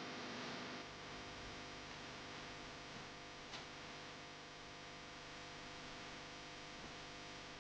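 Faint, steady background hiss with a low hum and a single brief tick partway through, cut off suddenly to silence at the end.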